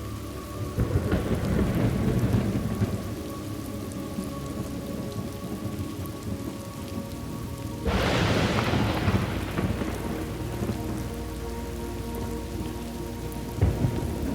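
Steady rain with rolling thunder: one rumble swells about a second in, a louder one starts suddenly about eight seconds in, and another begins near the end. Soft sustained music tones sit faintly underneath.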